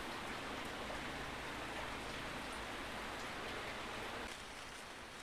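Rain falling steadily, an even hiss that becomes quieter about four seconds in.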